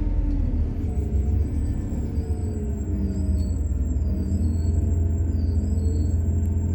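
Ride noise of a methane-fuelled MAZ-103 city bus under way: a steady low rumble with engine tones that drift up and down in pitch, and a faint thin high whine from about a second in.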